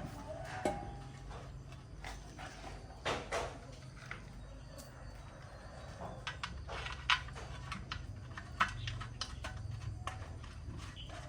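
Scattered light clicks and knocks of tools and parts being handled, over a faint steady low hum.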